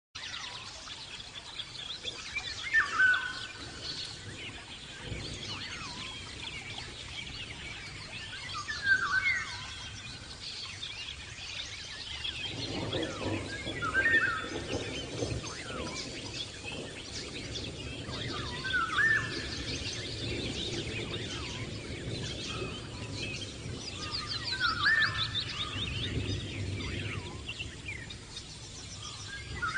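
Birds calling: one bird gives a loud, short call about every five to six seconds, over a background of many faint twittering chirps.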